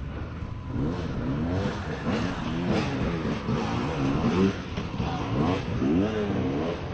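Off-road motorcycle engine revving up and down in repeated short throttle blips, its pitch rising and falling again and again.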